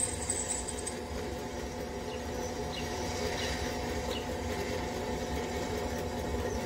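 A motor running steadily: an even hum with a low rumble, and a few faint light ticks over it.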